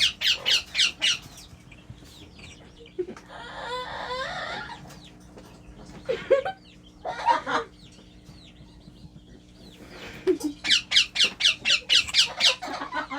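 Pet parrots calling: quick series of sharp squawks, about five a second, at the start and again for the last few seconds. In between there is a stretch of chattering and a couple of single calls.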